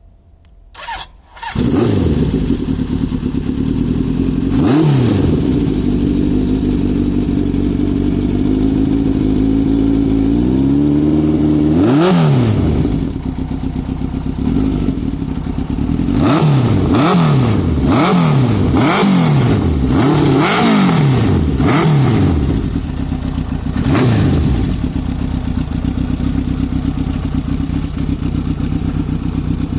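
Honda CB900F's air-cooled 16-valve inline-four motorcycle engine being started, catching about a second and a half in after a brief crank, then idling through straight-pipe 4-into-2 exhaust. It is revved up and down, with a slow rev-up around ten seconds in and a run of about seven quick throttle blips in the middle, then settles back to a steady idle.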